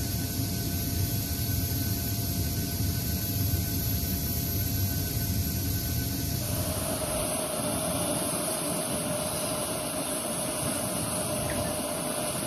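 Jet aircraft engines running: a steady rush with high, held whining tones. About six seconds in the sound changes, the low rumble dropping and the whine shifting pitch.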